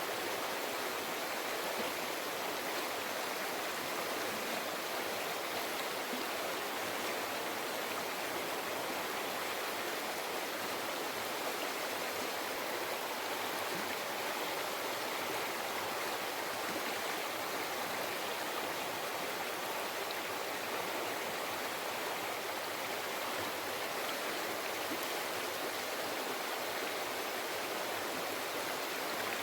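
Mountain river flowing over rocks: a steady rush of water, even and unbroken.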